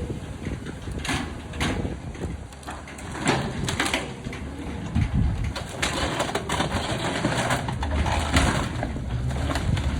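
Grapple truck's claw grabbing and crushing a pile of yard waste, with repeated cracking and crunching of branches over the steady low rumble of the truck's engine and hydraulics.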